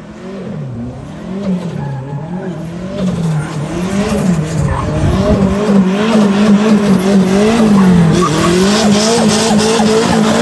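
Turbocharged Chevrolet Chevette engine revving up and down again and again as the car drifts on a wet surface, with tyres skidding. It grows louder over the first half as the car comes closer.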